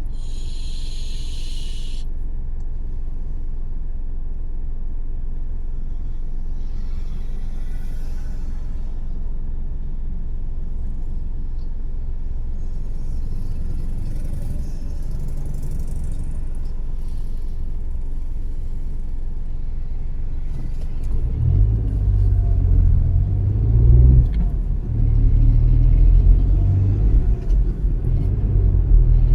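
A car driving, its tyres and engine giving a steady low rumble that grows louder and more uneven about three quarters of the way through. A short hiss comes at the very start.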